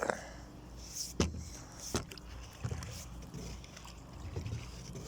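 A small boat's motor running low and steady, with irregular knocks and thumps against the hull while a fishing net is checked and hauled.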